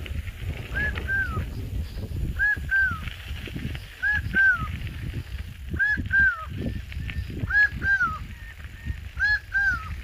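A bird calling from a tree, a repeated two-note call: six pairs of clear, arched, falling notes, about one pair every second and a half to two seconds. The onlooker, who had never heard it before, takes the caller for a carcará (caracara), a hawk.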